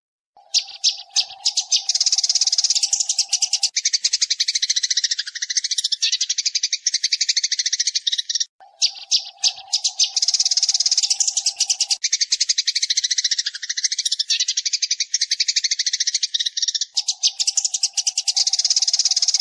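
Sparrows chattering in a dense run of rapid chirps, a looped bird-trapping decoy call that starts about half a second in and repeats roughly every eight seconds. A steady low hum sits under the first few seconds of each repeat.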